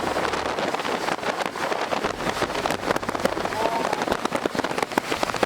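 Car driving on a dirt road: a low road rumble under a dense crackle of small hits throughout.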